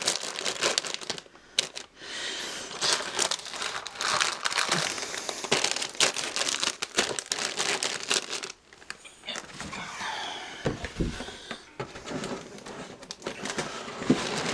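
Plastic bags of model-kit runners crinkling and rustling as they are handled and packed into the box, in irregular spells with short pauses and a dull bump about eleven seconds in.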